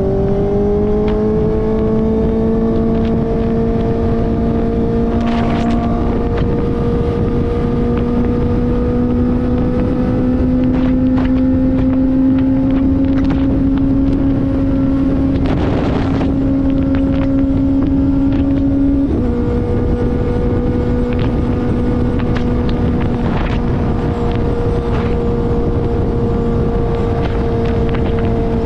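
Kawasaki ZX-4RR inline-four engine through an SC-Project slip-on exhaust, running at steady high revs while riding, its pitch creeping slowly upward, with a step down in pitch about two-thirds of the way through. Wind rushes on the microphone.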